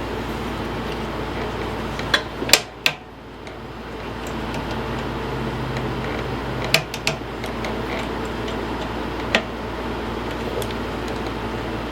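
Steady background hum broken by a few sharp metal clicks and taps: three close together about two seconds in, two near seven seconds, and one more at about nine seconds. The clicks are small parts and hand tools at work as a fuel line and its clamp are refitted to a mower carburetor.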